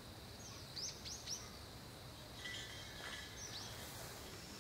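Birds chirping over a faint, steady outdoor hush: a quick run of three short, high, falling notes about a second in, and another near the end.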